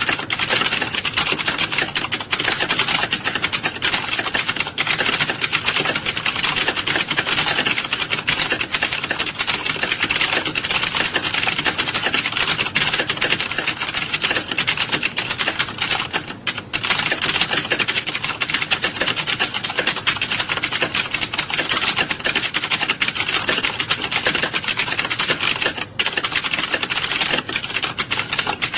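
Dense, continuous clatter of many keyboards being typed on at once in a typing classroom, with brief lulls about 16 and 26 seconds in.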